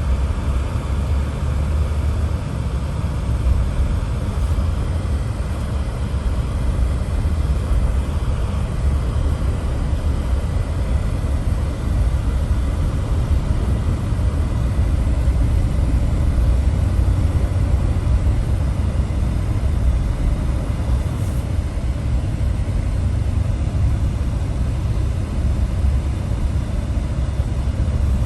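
Steady low rumble of a moving vehicle travelling without a break.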